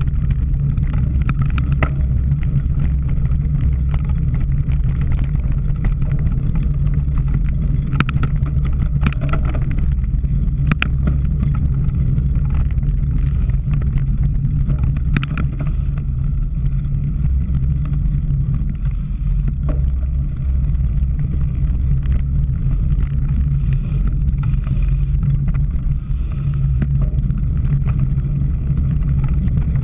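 Steady low rumble of wind buffeting the microphone of a cyclocross bike in motion, with scattered clicks and rattles from the bike over rough ground.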